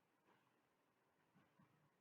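Near silence: faint room tone with a few soft, faint knocks.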